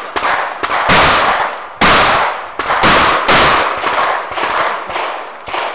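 Shotgun fired in a rapid string, about five loud shots a second or less apart, each with a ringing tail, followed by fainter reports near the end.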